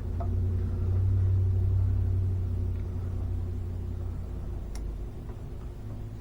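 2017 Jeep Cherokee's engine idling steadily, a low even hum that eases off a little after the first few seconds. A single sharp click comes near the end.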